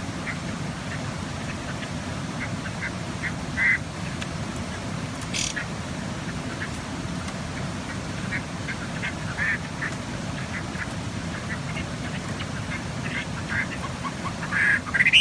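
Chinese hwamei (fighting hwamei) giving short, harsh calls at irregular intervals, louder once about four seconds in and again near the end, over a steady low background rumble.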